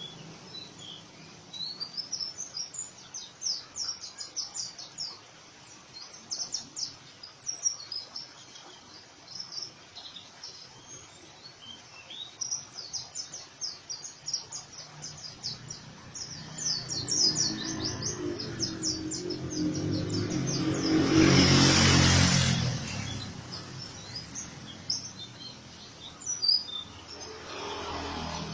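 White-eye (pleci) singing a fast, high chatter of rapid repeated notes, the rough 'ngriwik' style. About three quarters of the way through, a low rumbling noise builds up, becomes the loudest sound, and fades away while the song briefly pauses.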